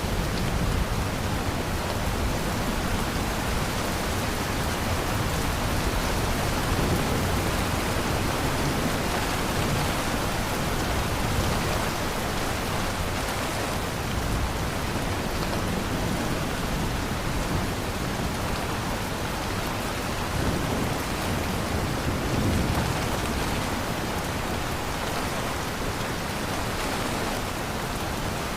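Steady rainstorm: heavy rain falling in an even hiss, with low rolls of thunder underneath.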